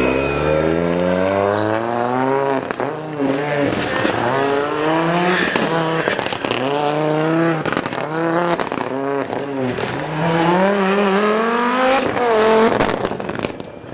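Rally car engine revving hard, its pitch climbing over the first couple of seconds and then rising and falling about once a second as the throttle is worked. A run of sharp cracks comes near the end.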